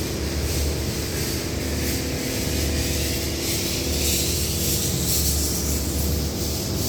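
Lovol LK 354 tractor's diesel engine running steadily, a continuous low rumble with a hiss over it.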